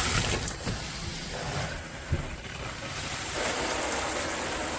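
MakeFit filtered shower head running at full pressure, water spraying in a steady hiss.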